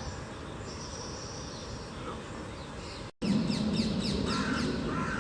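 Birds calling: after a cut about three seconds in, a rapid series of short, falling high chirps begins along with repeated short, harsher calls. Before the cut there is only steady background noise.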